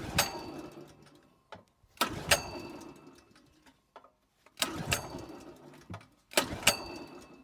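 Zipper ZI-STE3000 petrol generator's 6 hp engine being pull-started four times, about every two seconds: each pull starts sharply and dies away over a second or so. The engine cranks but does not start.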